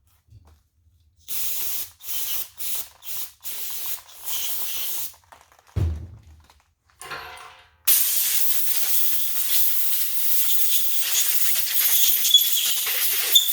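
A run of short hissing spray bursts, then a single thump, then one long continuous spray hiss: pressurised air or cleaner being sprayed.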